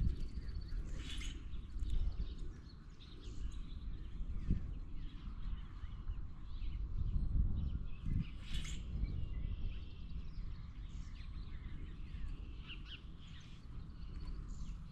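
A few short bird calls, about three, spread over a steady low rumbling outdoor noise.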